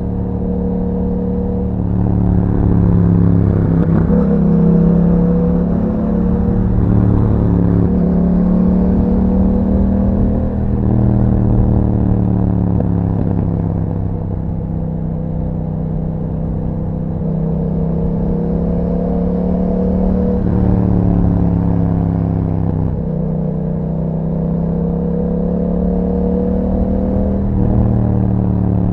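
Yamaha MT-07's 689 cc parallel-twin engine running through an Akrapovic exhaust with a dB killer, under way. The engine note climbs and drops back several times as the rider works the throttle and gears.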